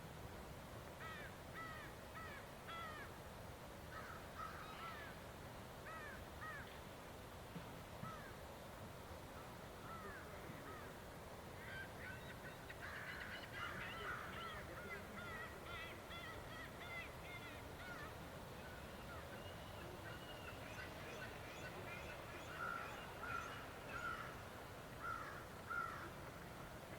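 Birds calling: many short, repeated calls from several birds, busier and louder in the second half.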